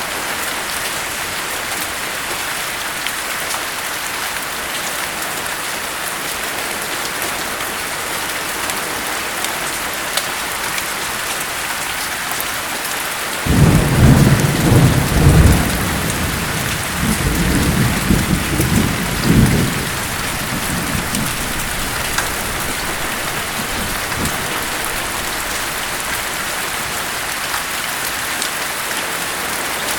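Steady rain falling, with a rolling peal of thunder about halfway through: it breaks in suddenly, rumbles low in several surges for about six seconds, then fades back under the rain.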